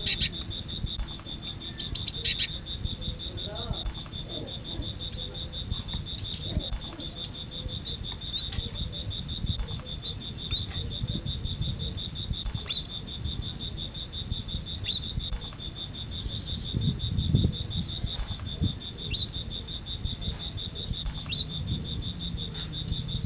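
Cinereous tit (gelatik batu) singing: short, sharp, rising notes in pairs or triplets, repeated every second or two. A steady, rapidly pulsing insect trill runs underneath.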